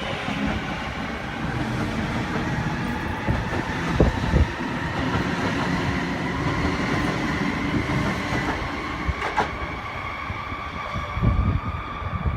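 Sydney Trains Waratah electric train running along the rails, its motor whine slowly rising in pitch as it gathers speed. A couple of heavier thumps come about four seconds in and again near the end.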